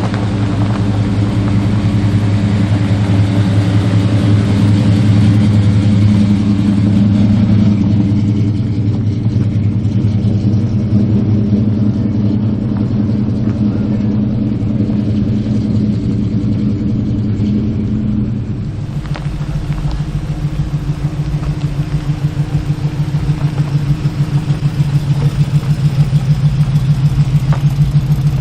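Car engine running with a steady low drone. About two-thirds of the way through, the sound changes to a lower, rhythmically pulsing engine beat.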